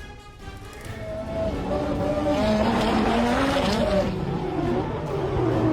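Car engine revving with a wavering pitch while the tires squeal and skid through a drift, growing louder after the first second.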